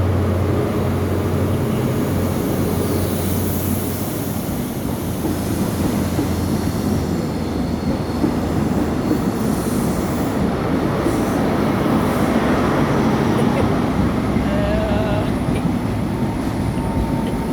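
Great Western Railway HST departing and running past: a steady low diesel hum from its Class 43 power car for the first few seconds, then the rumble of the coaches' wheels on the rails builds and carries on.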